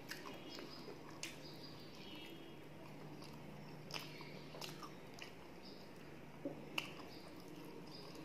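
Faint chewing of soft food (luchi and khichuri), with scattered wet mouth clicks and smacks every second or so, the loudest near the end.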